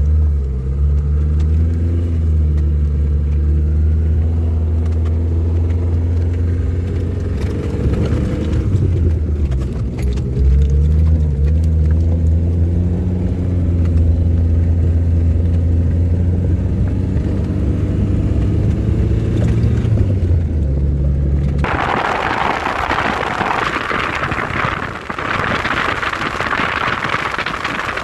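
Lada Zhiguli car driving, heard from inside the cabin: a low engine hum and road rumble whose pitch rises and falls with acceleration and gear changes. About 21 seconds in it cuts abruptly to a steady rushing noise.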